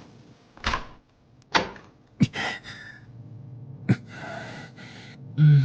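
A voice actor's breathy gasps and sighs, with a few short sharp clicks in between.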